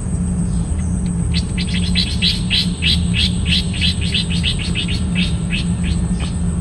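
A bird calling in a rapid run of short, sharp chirps, about four a second. The chirps start about a second in and stop near the end, over a steady low drone.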